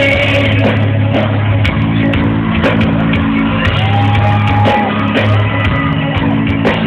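A live rock band playing loud in a large hall, with a singer holding one long note about four seconds in.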